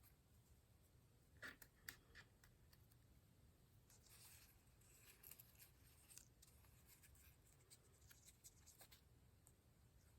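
Near silence with faint rustles and light taps of paper cutouts being handled and set down on a journal page.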